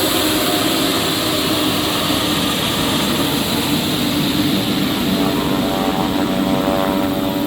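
Pilatus PC-12's single PT6A turboprop running steadily: the propeller's hum with a high turbine whine that fades in the first second.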